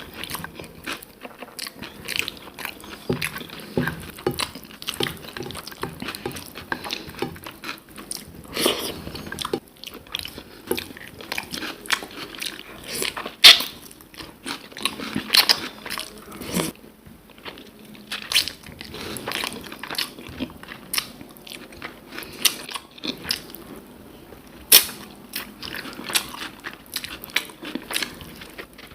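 A person eating close to the microphone: chewing and biting, with many irregular sharp clicks and crunches, the loudest about halfway in and again near the end.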